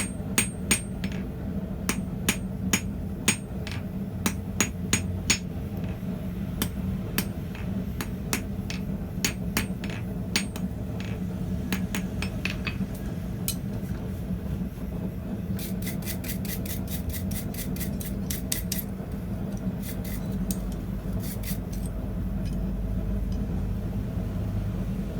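Blacksmith's hammer striking hot steel on an anvil: spaced, ringing blows through the first ten seconds or so, then a quick run of lighter taps about two-thirds of the way in. A steady low hum runs underneath.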